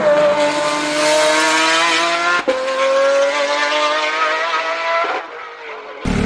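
Supercar engine accelerating hard, its pitch climbing steadily, with a brief break about two and a half seconds in. It drops away about five seconds in, and a different, steady, lower-pitched engine sound cuts in near the end.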